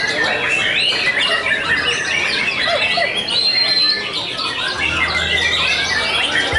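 A chorus of several caged white-rumped shamas (murai batu) singing at once in a contest class: dense, overlapping whistles and chattering calls.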